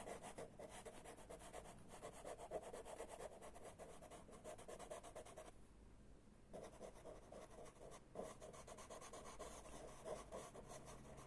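Chalk pastel stick scratching and rubbing on pastelmat paper in quick, faint, repeated strokes as colour is laid in, pausing for about a second midway.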